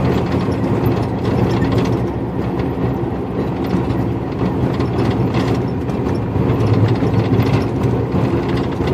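Inside a moving semi-truck cab: steady diesel engine drone and road noise, with mechanical rattling from the cab.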